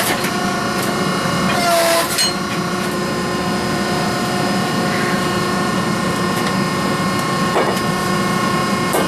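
Steady hum of running blacksmith-shop machinery, one even tone with several overtones, with two short harsh bursts at the start and about two seconds in.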